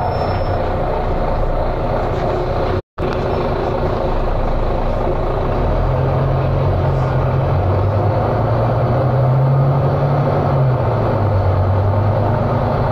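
Volvo B9TL bus's nine-litre six-cylinder diesel engine running, its note climbing from about six seconds in and falling back near eleven seconds as at a gear change. The sound cuts out completely for a moment about three seconds in.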